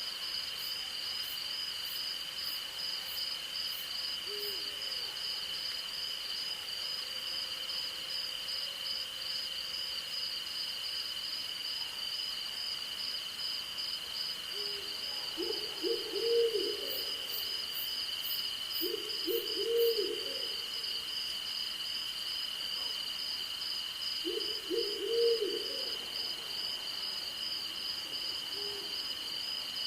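An owl hooting three times, a few seconds apart, in the second half, with a fainter short call before and after, over a steady night chorus of crickets and other insects, one trilling in rapid pulses and one holding a steady high tone.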